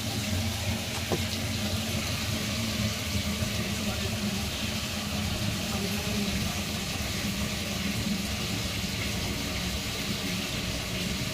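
Water running and draining steadily, over a steady low hum.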